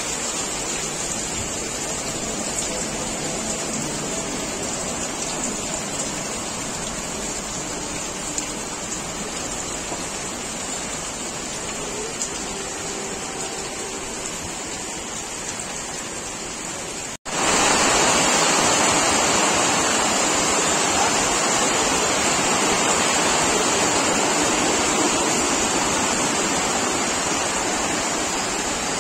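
Steady rain falling, a continuous hiss. About seventeen seconds in it cuts out for an instant and comes back louder.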